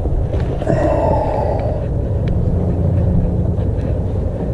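Wind buffeting the camera microphone: a loud, steady low rumble with no clear events in it.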